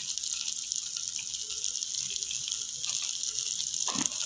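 Onions and spices frying in hot oil in a pan, a steady sizzle.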